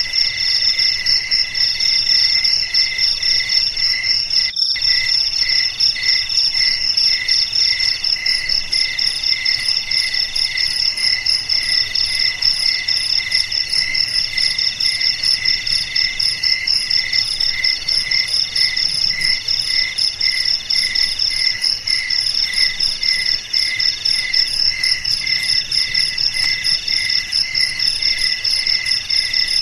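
A chorus of crickets chirping: several overlapping high trills, one pulsing about twice a second, another in longer drawn-out pulses, over a steady high shrill. A momentary break about four and a half seconds in.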